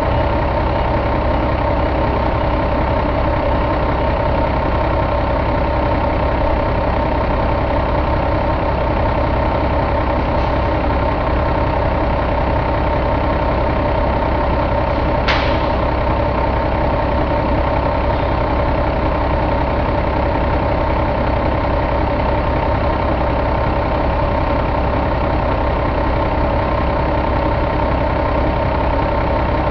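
A 2005 Cummins ISX inline-six diesel engine idling steadily, with one short sharp click about halfway through.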